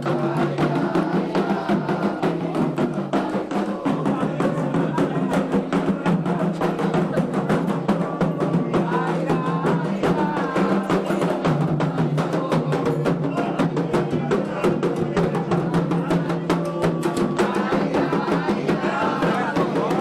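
Candomblé ceremonial music: atabaque hand drums keeping a fast, steady rhythm, with voices singing.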